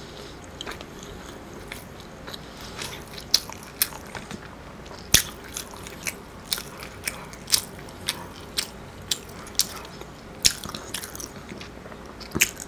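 A person chewing food close to the microphone: irregular mouth clicks about one or two a second, a few of them much louder.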